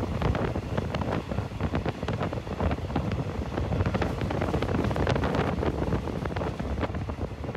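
Running noise heard on board a moving passenger train, with many quick rattles and knocks throughout and wind buffeting the microphone.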